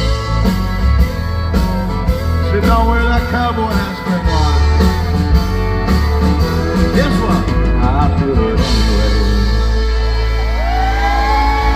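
Live country band playing an instrumental passage with drums, heavy bass and a bending lead melody. About two-thirds of the way through the beat stops, leaving a held bass note under long bending lead notes.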